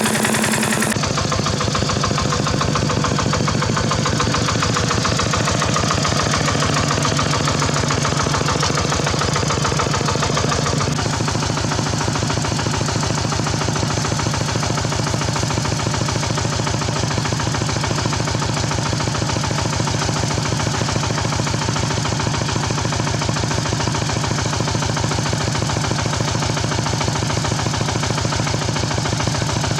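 Small engine of a Khmer hand tractor running steadily, with a fast, even firing beat, changing tone slightly about eleven seconds in.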